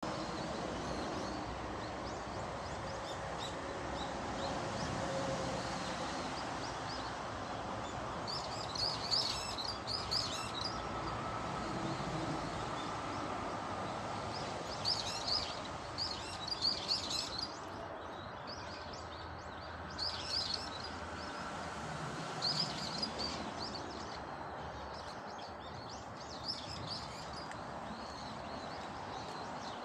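Small birds chirping in scattered bursts of short high calls, several bursts spread across the stretch, over a steady background noise.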